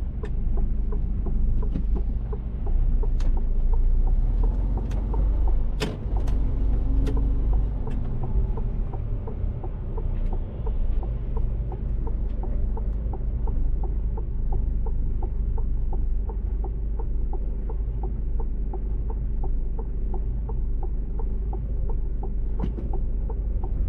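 Mercedes-Benz Actros truck running on the road, a steady low engine and road rumble. A few sharp clicks come in the first third, and from about halfway a regular ticking of two to three ticks a second runs alongside.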